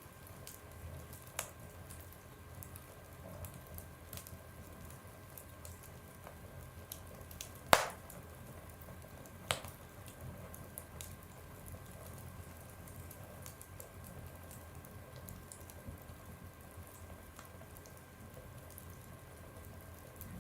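Wood fire burning in a stove: scattered small crackles and ticks, with two loud pops about eight and nine and a half seconds in.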